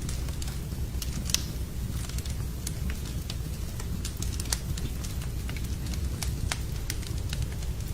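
Wood fire burning in a fireplace, a steady low rumble of flames with sharp, irregular crackles and pops from the burning logs; the loudest pop comes about a second and a half in.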